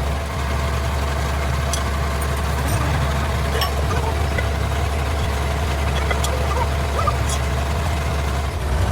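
A heavy engine running steadily at idle, with a few sharp metallic clicks scattered through it.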